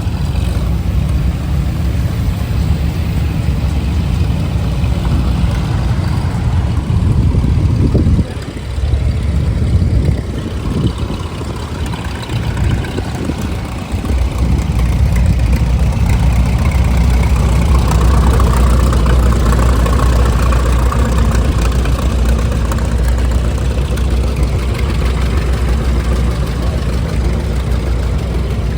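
An engine idling, low and steady, with a brief dip about eight seconds in and an unsettled stretch before it steadies again from about fourteen seconds.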